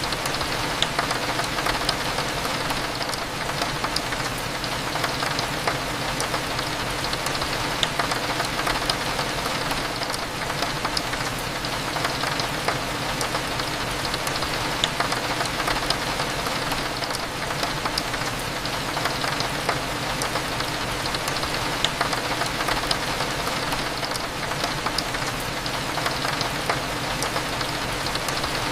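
Steady rain on a window, with scattered small ticks of single drops, over a low continuous hum.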